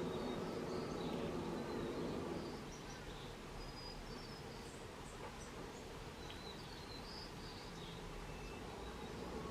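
A flying insect buzzing close by for the first two and a half seconds, then fading out, with faint, short, high bird chirps scattered through the rest.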